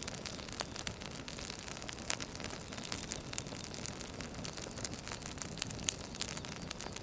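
Wood fire crackling: a steady hiss with frequent irregular snaps and pops, one sharper pop near the end.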